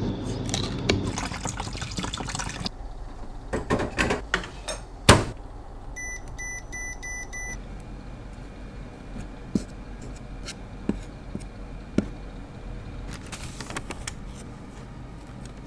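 Close-up handling of small objects: a few seconds of dense clicking and scraping, a sharp knock about five seconds in, then a run of four short electronic beeps and a few scattered light taps.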